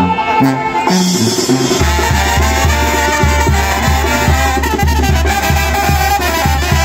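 Latin brass band music with brass, bass and drums playing; about two seconds in, a steady low beat comes in and keeps time.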